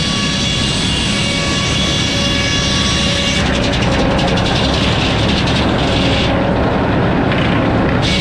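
Sawmill running and sawing a log: a loud, steady machine noise with several held tones, whose higher, hissing part changes about three and a half seconds in.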